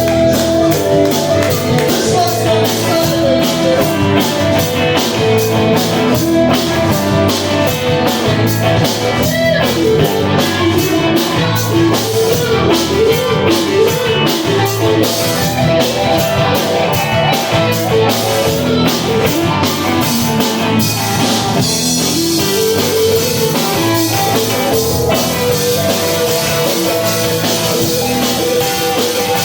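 Rock music: a band with drum kit and electric guitar playing a steady beat. About two-thirds of the way through, the drum hits give way to a sustained cymbal wash under the guitar.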